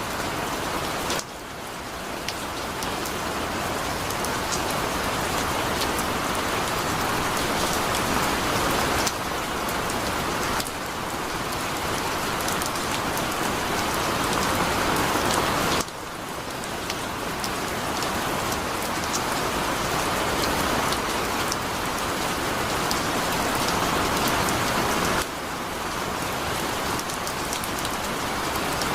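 Heavy rain pouring steadily, a dense hiss with the patter of individual drops striking a surface. The level drops suddenly several times and swells back up over a few seconds each time.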